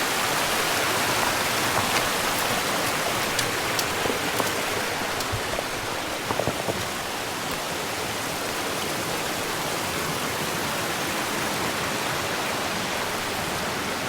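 Little Bird Falls, a small waterfall on a mountain creek, rushing in a steady, even splash. There are a few faint clicks in the first half.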